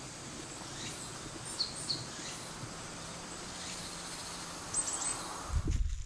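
Wild birds giving a few short, high chirps against a steady forest background, with a quick run of very high notes a little before the end. Near the end, low thuds begin.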